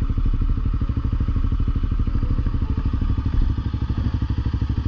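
Honda CRF250L single-cylinder motorcycle engine running steadily under way, its firing pulses even and unbroken.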